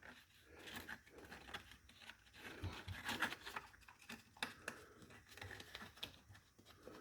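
Faint rustling with scattered light clicks and taps: hands handling the Work Sharp Ken Onion sharpener while its belt is changed to a 120 grit.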